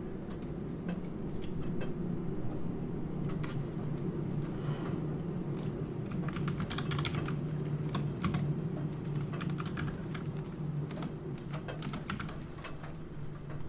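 Typing on a computer keyboard, scattered keystrokes that pick up into quick flurries in the middle, over a steady background of rain.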